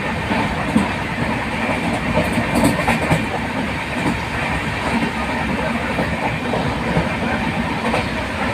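Steady rumble of a moving vehicle, with a few light clicks and rattles about two to three seconds in.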